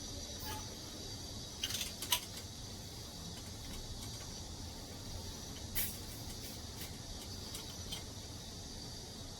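A steady faint hiss with a few light clicks and taps, one pair about two seconds in and another near six seconds.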